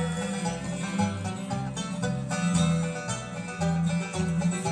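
Live bluegrass band playing an instrumental passage between sung lines of a song, with plucked strings over a steady bass line.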